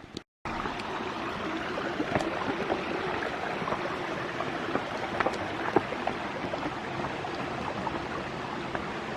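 Waterfall rushing steadily, an even noise of falling water with a few faint ticks over it.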